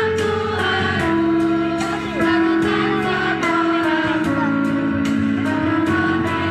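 Sixth-grade children's choir singing long held notes of a slow melody over instrumental backing, with a steady beat of about two strokes a second.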